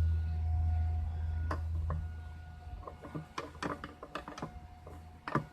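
A low hum that fades away about two seconds in, followed by a string of irregular light clicks and taps of a pick and small parts being handled while the fuel filter is fished out of the tank of a small two-stroke engine's fuel tank.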